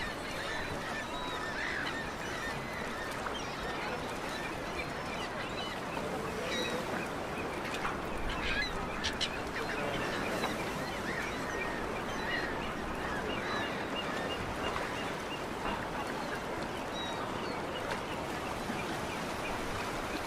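A group of waterbirds giving many short, scattered calls over steady background noise.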